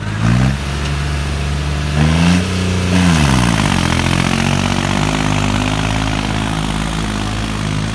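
New Holland 3630 tractor's diesel engine revving: the pitch climbs right at the start and again at about two seconds, falls back after three seconds, then holds at a steady speed.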